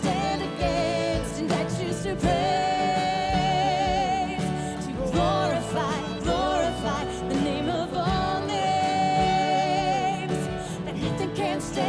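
Contemporary worship music from a church band, with a singer holding long notes with vibrato between the sung lines.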